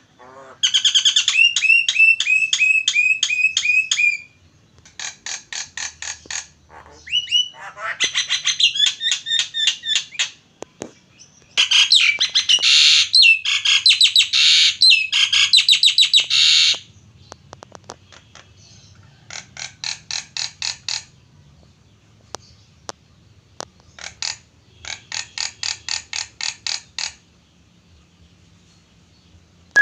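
Jalak (a starling) singing loud, rapid trills of repeated shrill notes, in bouts of a few seconds each with short breaks between; the loudest and longest bout runs for about five seconds near the middle.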